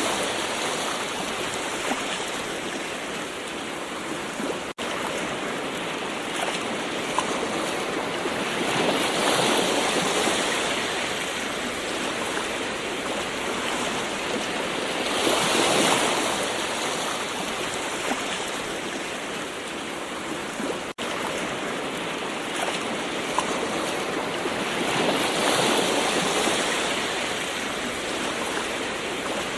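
Gentle ocean waves washing onto a shore: a steady rush that swells with each wave, about every six to ten seconds. Twice the sound cuts out for an instant.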